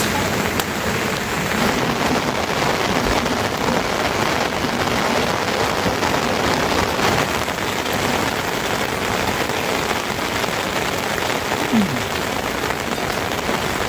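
Steady rain falling, an even hiss of drops throughout, with a short falling tone about twelve seconds in.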